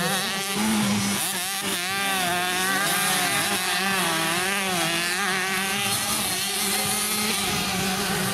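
Several two-stroke 65cc motocross bikes racing, their engines revving up and falling back over and over as they ride the track, over a steady drone.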